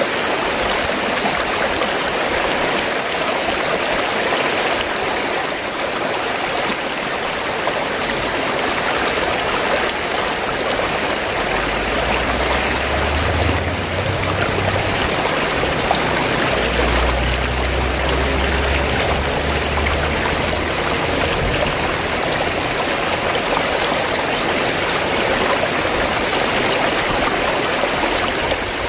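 Fast-flowing stream, water gurgling and rushing steadily, with a low rumble joining in for several seconds in the middle.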